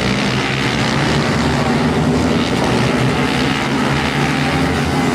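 Pit bike supermoto engines running hard on a race track, a loud, steady engine note that shifts in pitch.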